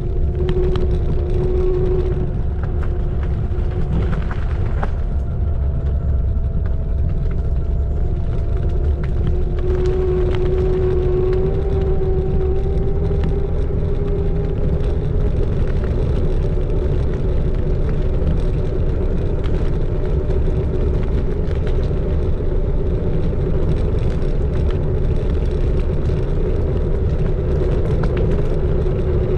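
Xiaomi Electric Scooter 4 Pro being ridden: a steady electric motor whine that climbs slowly in pitch partway through, over a constant low rumble.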